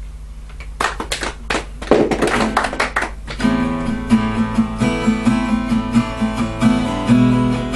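A scatter of clicks and knocks, then about three and a half seconds in an acoustic guitar starts strumming steady chords as a song's introduction.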